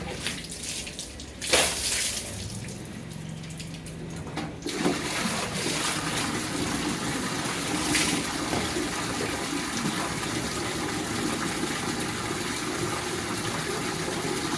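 Water splashing onto a motorcycle being washed: a few uneven splashes, one louder about a second and a half in, then a steady rush of water from about five seconds in.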